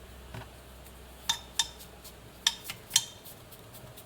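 A handful of light clinks and taps from small hard objects being handled, about six spread over three seconds.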